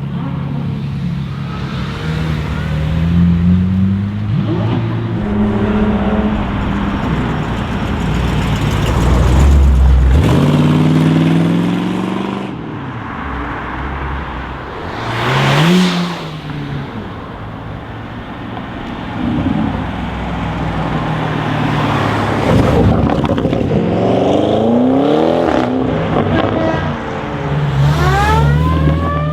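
Audi RS7 Sportback C8's twin-turbo V8 running and accelerating several times, its pitch rising with each pull. Near the end a siren starts to wail, rising in pitch.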